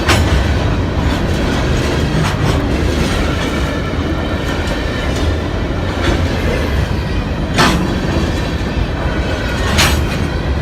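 A train rolling past, a steady rumble of wheels on rail with a few sharp clacks as the wheels cross rail joints, the loudest near the end.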